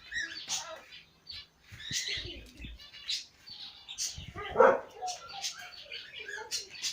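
Birds chirping repeatedly in short, high notes, with one louder, lower call about four and a half seconds in.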